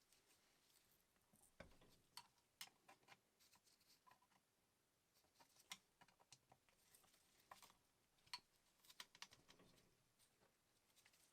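Faint, irregular light clicks and taps of small parts being handled on a workbench.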